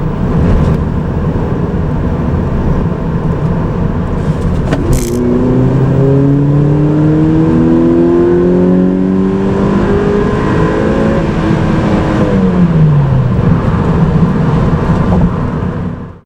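Mazda NC Roadster's 2.0-litre LF-VE inline-four running steadily, then pulling under hard acceleration with its revs climbing for several seconds. The revs drop away about twelve seconds in. A sharp click comes about five seconds in, just as the revs start to climb.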